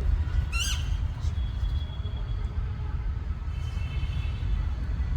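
A parrot gives one short, harsh squawk about half a second in, over a steady low rumble; faint thin higher calls come and go.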